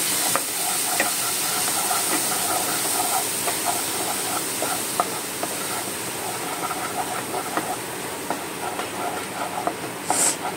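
Onion paste and ground spice masala sizzling as it fries in oil in a nonstick kadai, with a spatula ticking and scraping against the pan as it is stirred. There is a louder scrape near the end.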